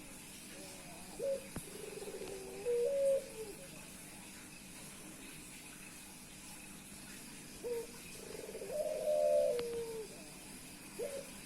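Male puter pelung (collared-type turtle dove) cooing in courtship at a female: two multi-note coo phrases, one about a second in and another near the end, each rolling and then sliding down, with a short extra note at the very end.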